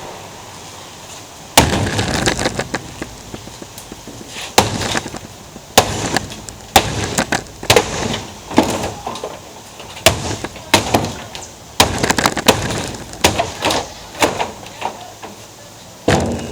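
Sledgehammer blows smashing a big-screen TV: more than a dozen heavy impacts about a second apart, each with glass and plastic cracking and clattering.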